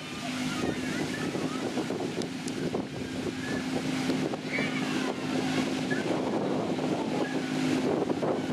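Narrow-gauge park-railway locomotive hauling open passenger carriages towards the listener: a steady engine hum with the rattle of wheels and carriages on the track, growing a little louder as it nears.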